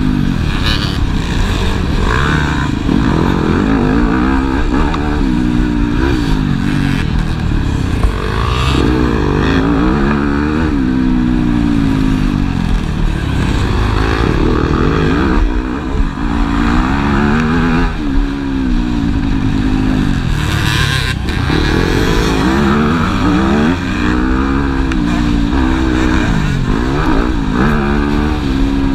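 Motocross bikes racing, their engines revving up and falling back again and again as they accelerate, shift and brake, at times several at once.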